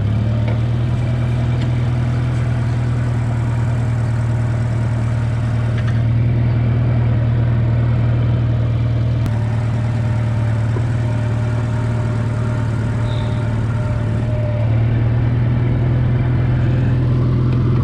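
Tractor engine running steadily under load in low first gear, a constant low hum that swells slightly a couple of times.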